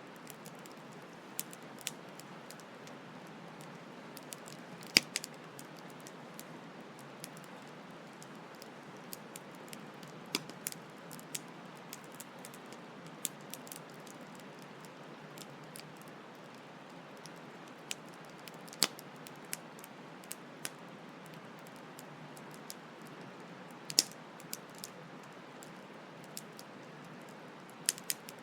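Campfire crackling, with irregular sharp pops and snaps, a few of them much louder, over a steady hiss of flowing stream water.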